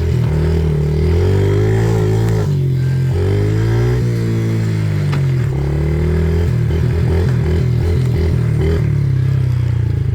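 Small Yamaha dirt bike engine pulling in first gear, its revs rising and falling repeatedly, then settling into a slower, pulsing low-rev chug for the last few seconds.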